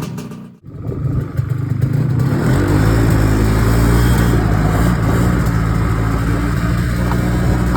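Ski-Doo Freestyle 300 snowmobile's two-stroke engine under way; after a brief break near the start it picks up over the next two seconds and then runs steadily.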